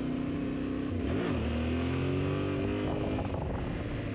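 Yamaha Ténéré 700's parallel-twin engine under way. Its revs dip sharply about a second in, then climb steadily for a couple of seconds before levelling off.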